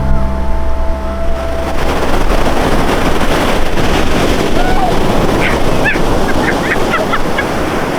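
A steady engine-like drone stops about two seconds in, giving way to the continuous wash of sea waves breaking on a shore. Short high chirps come and go near the end.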